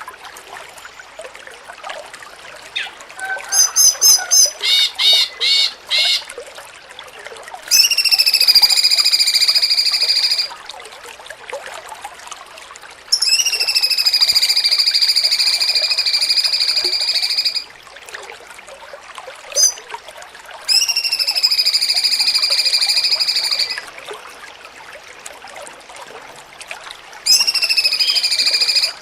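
Cucak cungkok song: a quick run of short chirping notes, then four long held whistles of about two to four seconds each, each starting with a short upward slide. A steady trickle of water runs underneath.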